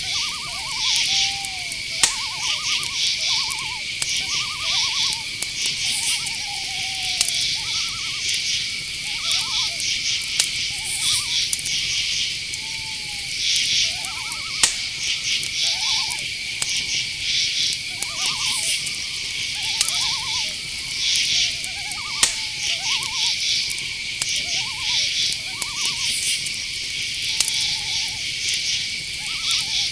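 Night-forest ambience: a steady high insect drone under pulsing cricket trills, with many short, fast-pulsed calls, some gliding down in pitch, repeating about once a second throughout.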